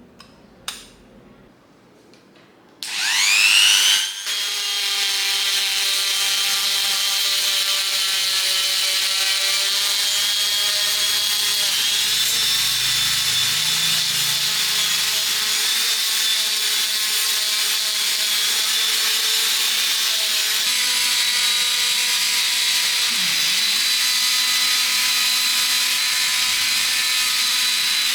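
An electric power tool starts up about three seconds in with a quickly rising whine, then runs steadily at a constant high pitch.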